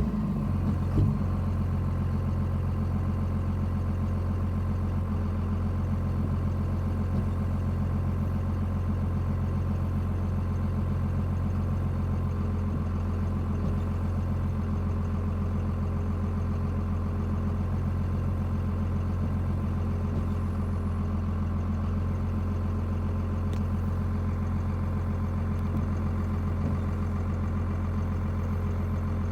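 24-valve Cummins inline-six turbo diesel idling steadily. This is an engine whose erratic idle and occasional cutting out were traced to a bad crankshaft position sensor.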